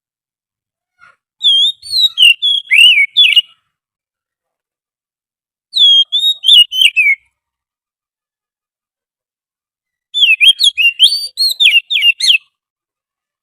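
Oriental magpie-robin song in a lure-call recording: three loud phrases of quick, rising and falling whistled notes, with dead silence between them.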